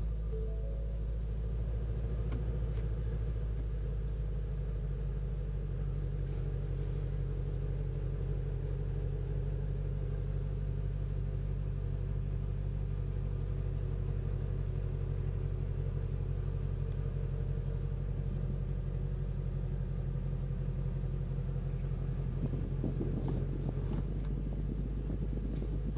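2020 Shelby GT350R's 5.2-litre flat-plane-crank V8 idling steadily with a low rumble.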